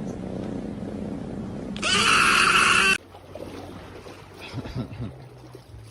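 A cat purring steadily. About two seconds in, a loud high-pitched cry cuts across it for about a second and stops abruptly.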